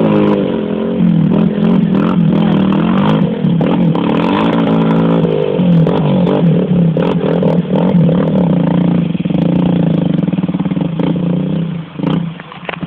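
Motocross motorcycle engine running and revving, its pitch rising and falling with the throttle, dipping briefly near the end.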